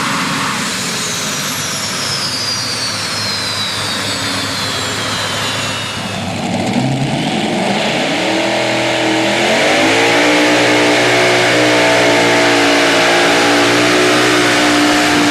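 Pulling truck's engine. A high whine falls away over the first several seconds; then, about seven seconds in, the engine revs up and holds at high, steady revs, getting louder.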